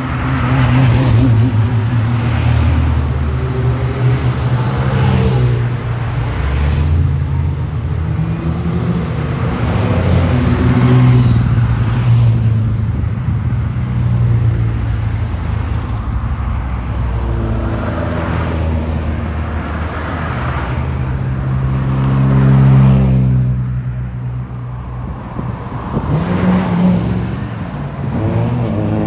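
Classic racing cars' engines running and revving as cars drive past one after another, their pitch rising and falling with each pass.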